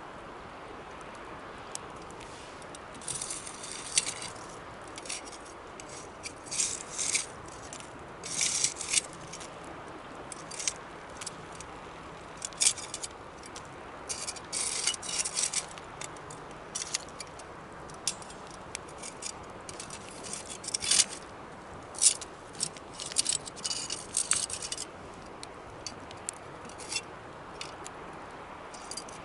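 Wood campfire crackling: irregular sharp pops and short crisp bursts of crackle over a steady low hiss.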